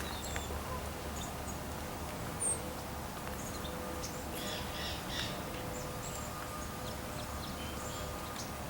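Distant wild birds calling, with a short run of harsh, raspy calls about four seconds in and faint high chirps scattered throughout, over a low outdoor rumble.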